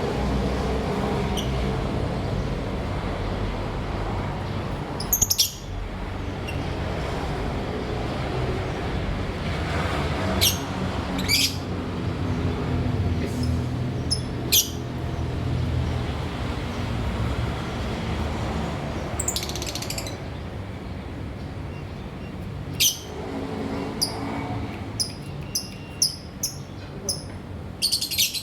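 Lovebirds giving short, shrill chirps, a few scattered ones at first and then a quick run of them near the end, over a steady low rumble.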